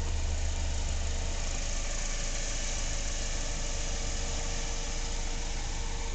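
Car engine running steadily with a low rumble and a faint steady hum.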